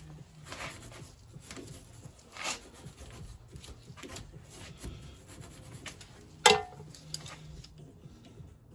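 Small metal-on-metal scraping and rubbing as a seized piston is worked at in the brass fuel and oil pump of a Lister Q Type engine, with one sharp, ringing metal clink about two-thirds of the way through.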